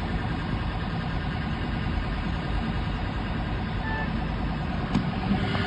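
Steady running noise of a road vehicle, engine and tyres, with no marked changes.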